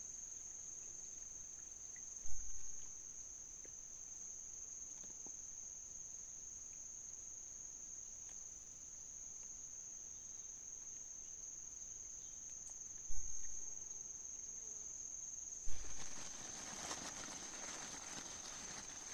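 Steady high-pitched insect chorus. A few dull low thumps are heard, and rustling noise picks up near the end.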